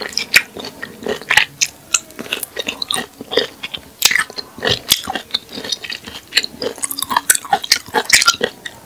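Close-up chewing and crunching of pieces of raw cactus: crisp, irregular crunches several times a second.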